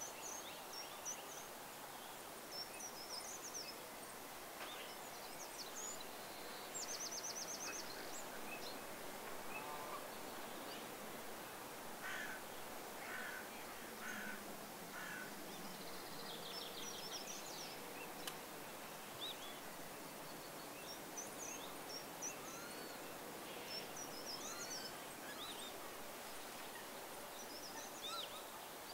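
Several wild birds calling: scattered short, high chirps and whistles, a fast rattling trill about seven seconds in and another around sixteen seconds, and a few lower, harsher calls in the middle, over a steady background hiss.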